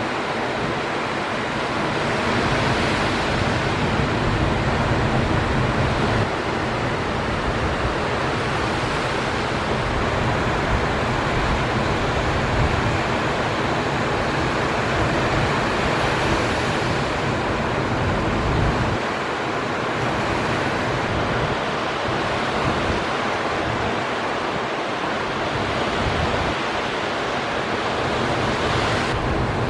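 Steady roar of big ocean surf breaking, with wind noise on the microphone.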